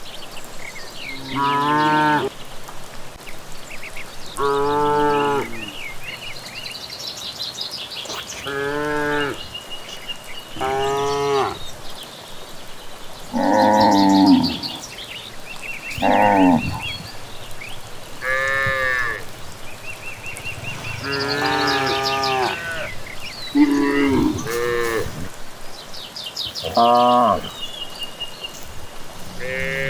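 Cattle mooing over and over, about a dozen separate long, pitched calls every two to three seconds, with small birds chirping between them.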